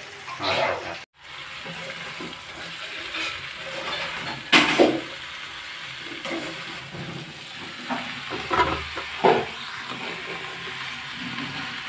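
Raw prawns frying with a steady sizzle in a wok, with a spatula scraping and knocking against the pan several times as they are stirred. The sound cuts out briefly about a second in.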